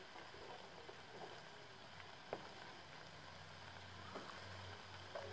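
Faint sizzling of sliced bitter gourd frying in a wok, with a couple of light clicks.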